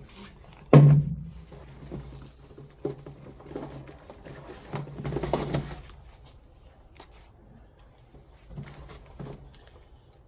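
Handling noises: a sharp knock about a second in, then scattered softer knocks and rustling as gloves come off and gear is fiddled with.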